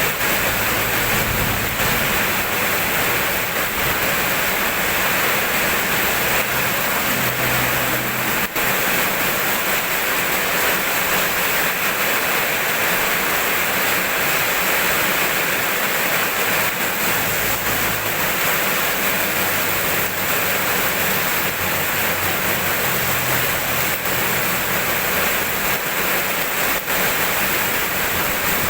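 Steady rainfall, an even hiss that does not change in level.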